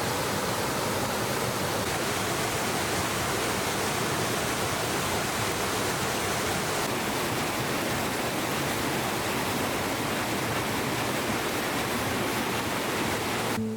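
Steady rushing of flowing water, like a stream or small waterfall, cut off suddenly near the end.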